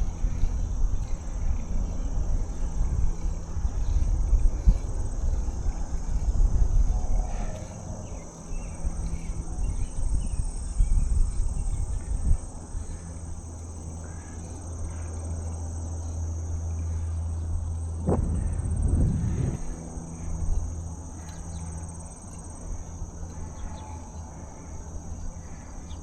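Steady high-pitched drone of an insect chorus, under low rumbling wind on the microphone from riding during the first several seconds. A steady low hum comes in about halfway and fades a little after 20 seconds, with a brief rising sweep near 18 seconds.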